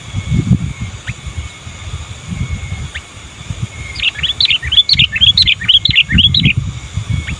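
Sooty-headed bulbul (kutilang) singing: a couple of single short notes, then, about four seconds in, a rapid run of rising and falling chirps lasting about two and a half seconds, over a low rumbling noise.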